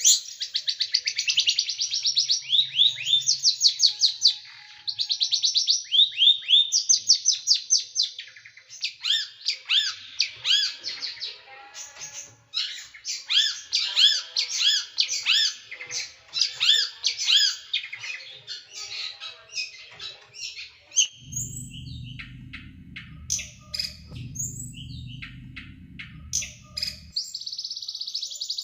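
Small songbird singing fast, sharp runs of high repeated notes and quick down-swept whistles, the dense 'tembakan' bursts that bird keepers play to train cage birds. About three-quarters of the way through, a low hum comes in for several seconds while the bird gives scattered short notes, before a dense trill near the end.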